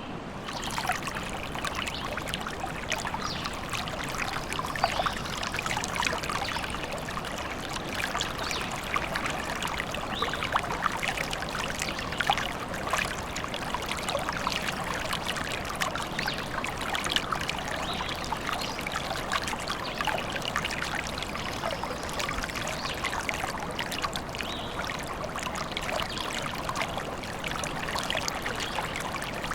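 A small stream trickling and babbling over stones, a steady splashing with many little gurgles.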